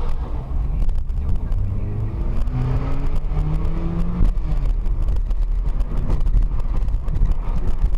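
A car driving, with a steady low engine and road rumble. Between about two and four seconds in, the engine note steps up a few times, and a sharp click comes just after.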